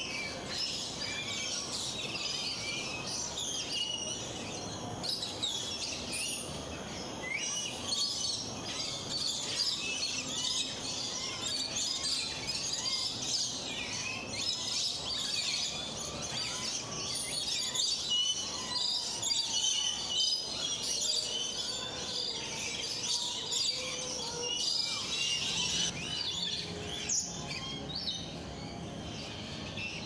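A dense chorus of many birds chirping and calling, short high chirps overlapping one another throughout, with a few lower calls in the middle.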